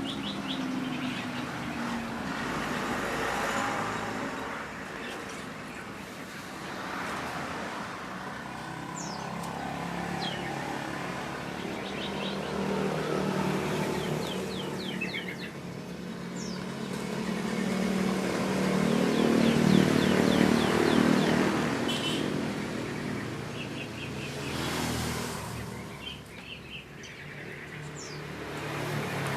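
Small birds chirping in short bursts over the rumble of passing road traffic, which swells and fades as vehicles go by, loudest a little past the middle.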